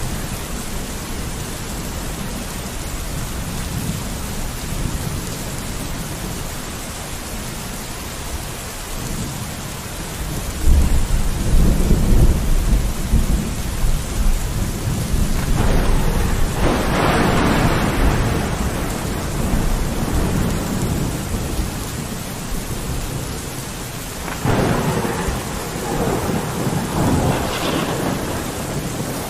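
Steady rain with rolling thunder: a deep rumble builds about ten seconds in and swells into a louder peal, and a second rumble follows near the end.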